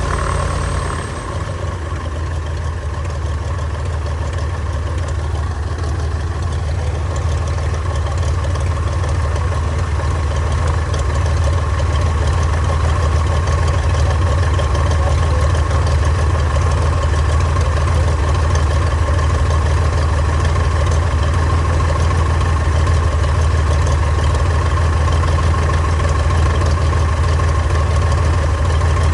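1948 Cessna 170's six-cylinder Continental engine running steadily at low power after its first start following a long sit; it dips briefly about a second in, then grows a little louder over the next ten seconds and holds.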